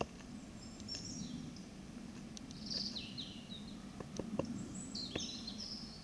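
Small birds calling in woodland: three groups of short, high chirps and whistles. Beneath them are a low steady hum and a few sharp clicks.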